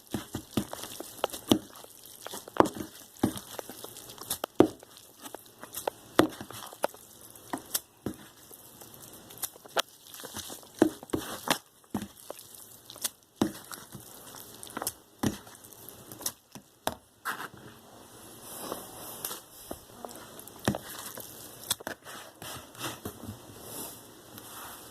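Irregular sharp taps and clicks with some crinkling: kitchen handling sounds of preparing a bowl of ramen.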